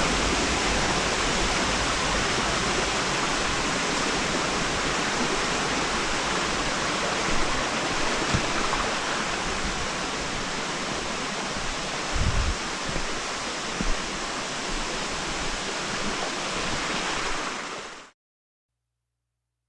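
Steady rushing of mountain stream water, with a few soft low thumps around the middle. The sound fades out near the end.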